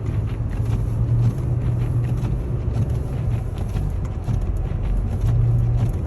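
Car driving through deep snow, heard from inside the cabin: a steady low engine and road drone with irregular light knocks and clicks throughout.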